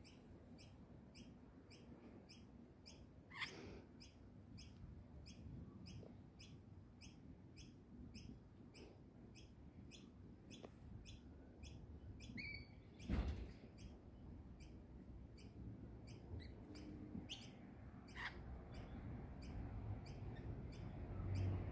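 Small bird giving a short, high chirp over and over, evenly about twice a second, with a couple of falling calls and a louder bump about thirteen seconds in.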